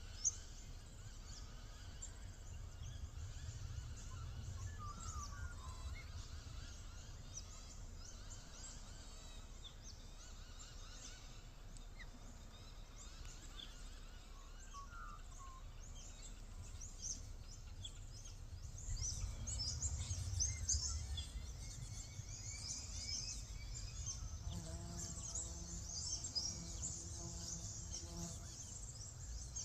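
Outdoor rural ambience: dense high chirping of insects and birds, busier in the second half, over a low rumble, with a couple of short bird calls. Near the end a steady low hum comes in for a few seconds.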